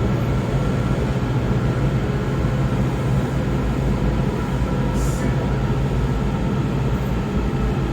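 Interior of a Kawasaki 7000-series Washington Metro railcar running on the rails, a steady rumble with a level motor hum, as the train comes into a station stop. A brief hiss sounds about five seconds in.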